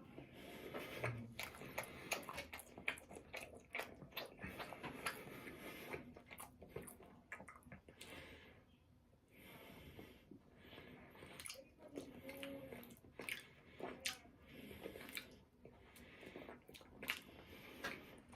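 Close-up chewing and biting: wet mouth clicks and smacks of someone eating, irregular, with a couple of short pauses.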